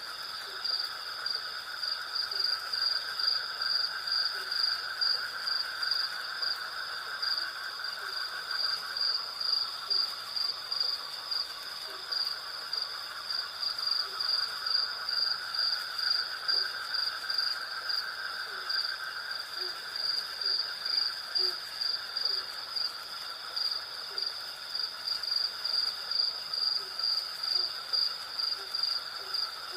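Night chorus of crickets and cicadas: a high, rhythmic chirping pulsing about twice a second over a steadier high trill and a lower continuous buzz. Faint short low calls recur every second or so underneath.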